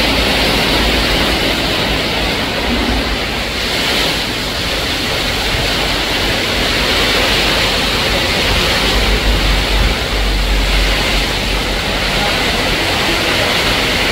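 Heavy downpour: a dense, steady hiss of rain, with wind buffeting the microphone in gusts, strongest about nine to ten seconds in.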